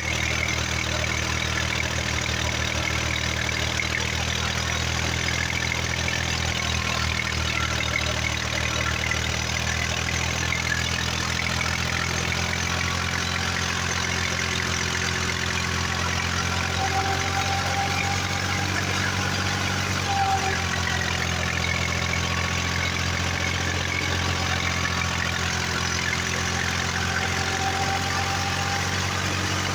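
Tractor engine running steadily at idle, a constant low engine note with no change in speed.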